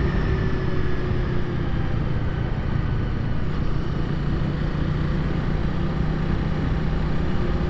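Honda Rebel 300's single-cylinder engine running steadily as the motorcycle is ridden, its pitch easing slightly in the first second, with wind and road rumble on the rider's mic.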